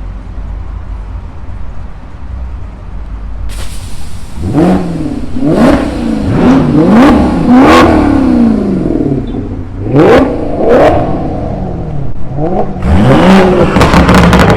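A car engine idling, then revved hard in about ten quick blips, each shooting up in pitch and dropping straight back, with sharp cracks at the top of several.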